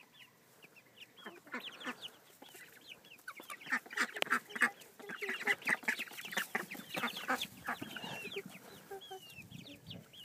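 Several chickens clucking and calling over one another, busiest and loudest in the middle few seconds.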